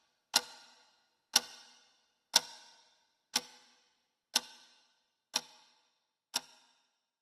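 Steady ticking, one sharp tick a second, each with a short ringing tail, growing fainter near the end.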